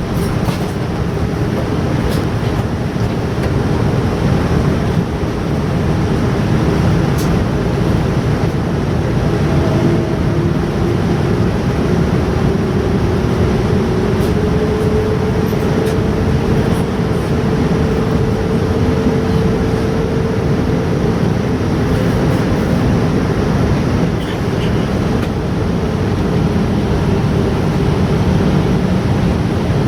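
Steady airliner cabin noise, a constant rush, with a faint tone that slowly rises in pitch through the middle of it.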